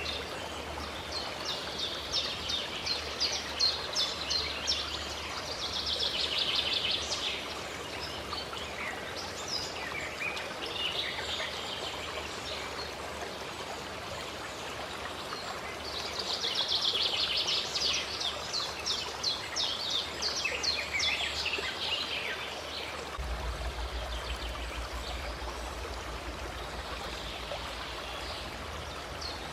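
A stream running steadily, with birds singing over it in two long bouts of rapid, repeated high chirps, and a third bout beginning near the end.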